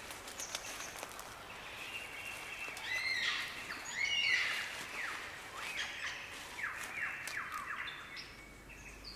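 Wild birds singing and calling: a mix of short whistles and chirps over a light background hiss, loudest about three to four seconds in, with a run of quick falling notes around seven seconds.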